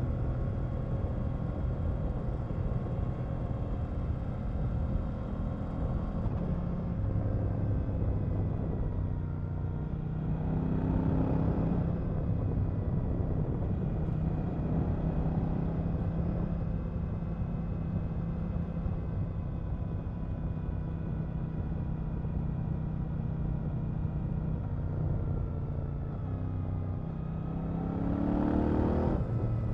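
KTM 890 Duke R's parallel-twin engine heard from the bike as it is ridden, held mostly at a steady part-throttle drone with its pitch stepping between gears. The revs rise briefly about ten seconds in, and near the end they climb sharply before dropping at a gear change.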